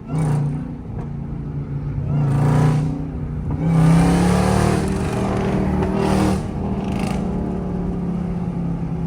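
Jeep Grand Cherokee Trackhawk's supercharged V8 running with a steady, level drone, with several swells of rushing hiss over it.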